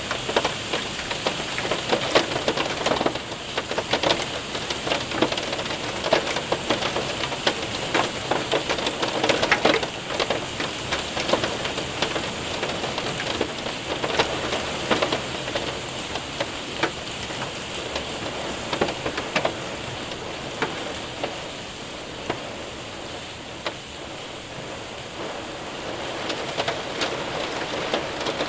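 Hail and rain hitting a window and roof: a steady hiss of rain with many sharp ticks of hailstones, the ticks thinning out somewhat in the second half.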